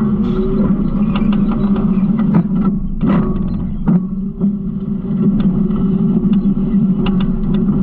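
Garbage truck engine running steadily, with scattered clanks and rattles of trash and metal at the hopper.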